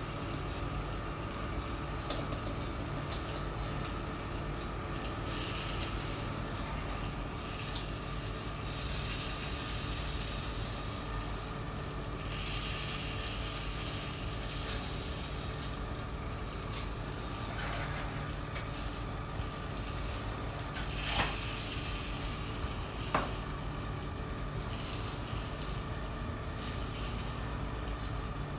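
Steady sizzling of food frying in a cafe kitchen, with two short sharp clicks about two seconds apart late on.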